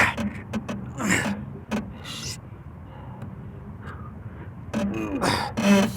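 A man's breathy gasps, with a short voiced grunt near the end, and a few faint clicks.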